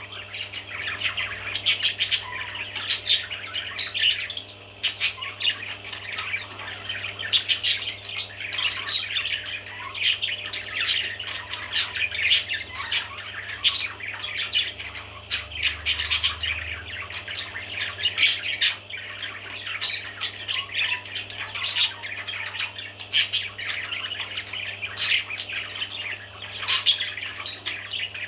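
Baby parrots chirping and squawking without pause, many short overlapping calls in a dense chatter.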